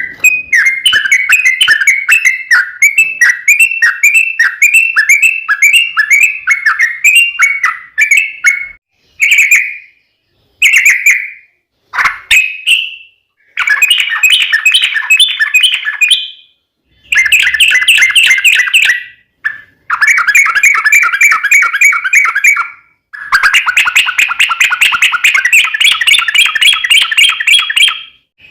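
Yellow-vented bulbul (trucukan) song: loud runs of rapid chattering notes, delivered in bouts of a few seconds separated by short pauses.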